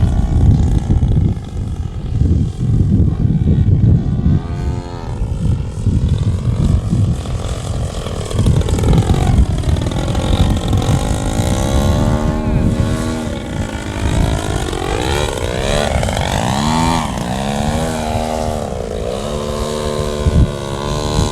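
Radio-controlled Ultimate aerobatic biplane in flight. Its engine note sweeps up and down in pitch again and again as it throttles and passes by, over a low rumble of wind on the microphone.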